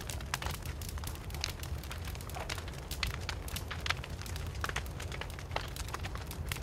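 Wood fire burning with irregular sharp crackles and pops, several a second and uneven in strength, over a steady low rumble of the flames.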